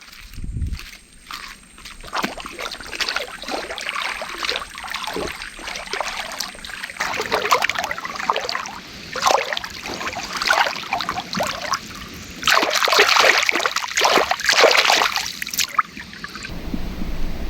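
Shallow river water splashing and sloshing in irregular bursts, loudest near the end before stopping.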